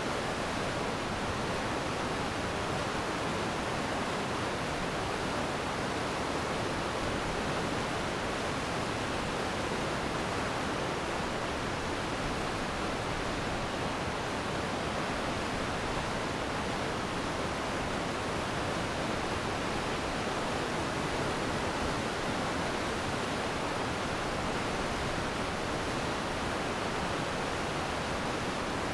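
Glacier meltwater stream rushing steadily, an even roar of fast-flowing water.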